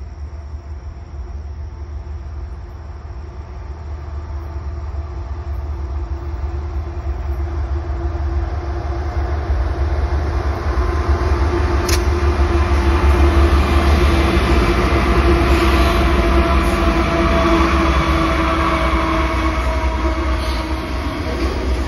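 Freight train's diesel-electric locomotives approaching and passing close by. The engines' low rumble, with a steady tone over it, grows louder over the first twelve seconds or so, then holds as the locomotives go past. There is a single brief click partway through.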